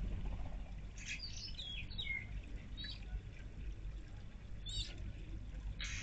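A small garden fountain trickling steadily into a birdbath, with a bird giving short chirping calls: a quick run of them about a second in, then single calls every second or two.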